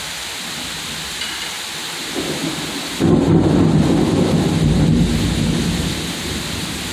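Heavy tropical-storm rain pouring steadily. About three seconds in, a loud low rumble of thunder breaks in suddenly, rolls for about three seconds and fades back under the rain.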